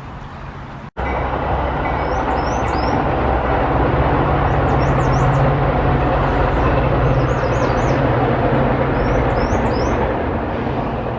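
A loud, steady vehicle rumble with a low hum starts abruptly about a second in. Over it a small bird gives high, quick chirping notes in short runs, every two to three seconds.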